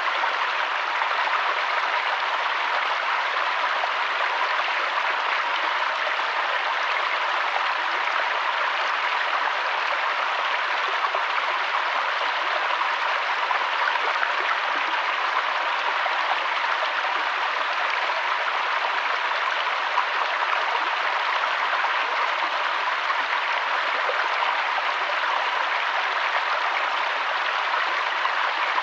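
Running water of a mountain stream and waterfall, a steady rushing with no change in level.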